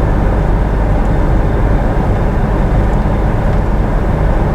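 Steady road and engine noise inside a moving car's cabin, heaviest in the low end.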